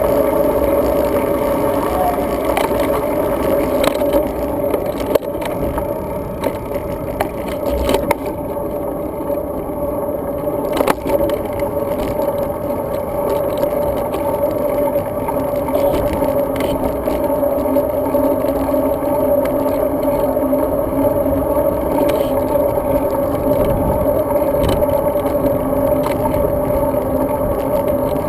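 Riding noise of a road bike picked up by a mounted action camera: a steady hum over tyre and wind rumble, with rattles and a few sharp knocks from bumps in the pavement.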